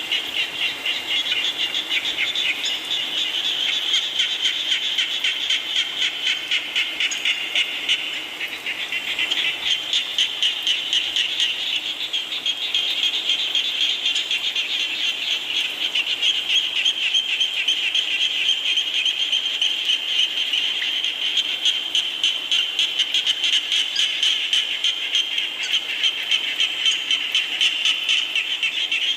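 A dense chorus of frogs calling, rapid pulsed calls overlapping without a break, easing briefly about eight seconds in.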